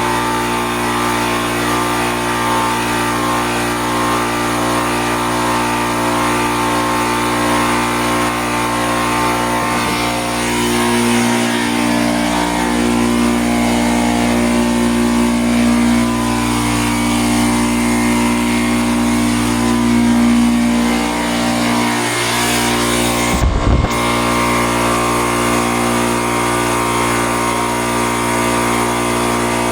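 A motor running steadily at an even pitch, with a brief low swoop about 23 seconds in.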